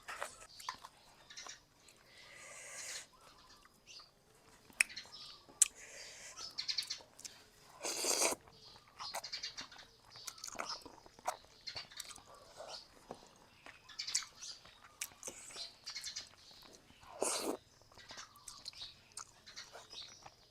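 Close-up sounds of a person eating boat noodles with sliced pork: wet chewing, lip smacks and small clicks throughout, with two longer, louder slurps, one about eight seconds in and one a few seconds before the end.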